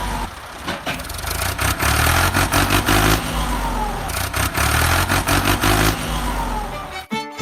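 Vehicle engine running and revving up and down, with rattling clicks over it; it cuts off suddenly near the end.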